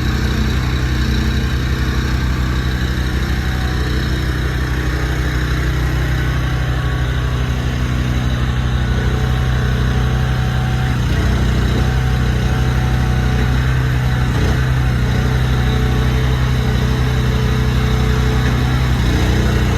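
Large truck engine idling steadily.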